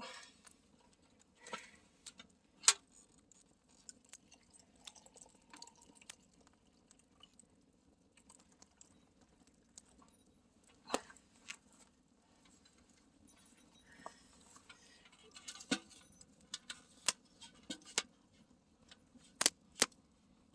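Campfire crackling: irregular sharp pops and snaps over a low, steady hiss, with one loud pop about three seconds in and a flurry of pops near the end.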